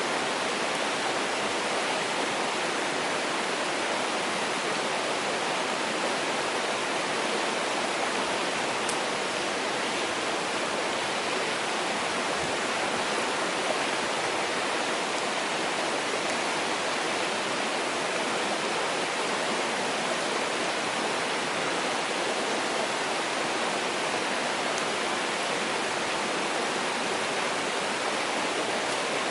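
Mountain stream rushing steadily over rocks, with a couple of faint clicks.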